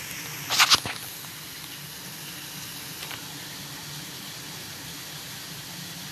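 Heavy rain pouring down in a steady hiss. A brief loud burst of noise about half a second in.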